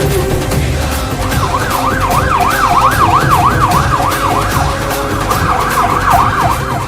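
Siren yelping, its pitch sweeping rapidly up and down about three times a second, starting about a second in.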